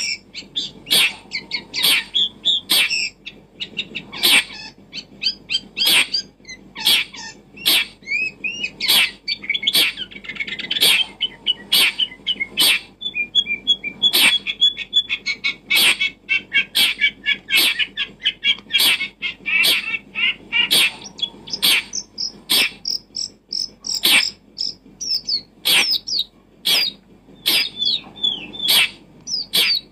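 Birds chirping and calling busily, a rapid string of short, sharp notes mixed with twittering.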